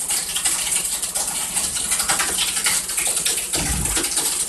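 Wet concrete being poured and worked into a foundation form, a dense gravelly crackle and slosh of the mix, with one short low thud about three and a half seconds in.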